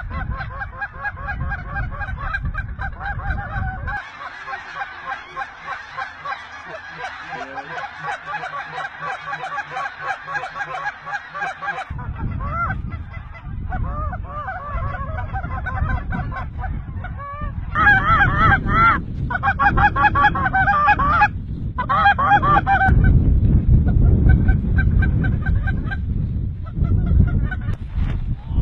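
A flock of geese calling, with many overlapping honks and yelps: a mix of white-fronted geese (specks) and lesser Canada geese. The calling grows louder and denser about two-thirds of the way in. Wind rumbles on the microphone except for a stretch early on.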